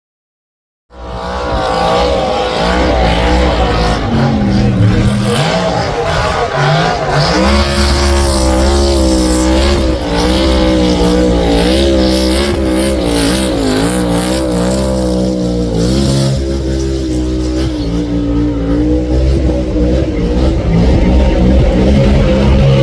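Race car engine running loudly and revving, its pitch wavering up and down; the sound cuts in abruptly about a second in.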